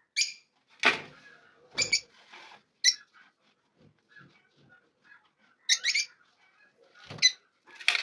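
Small caged pet birds chirping in short, high calls, about six times, with a sharp knock about a second in and another near the end.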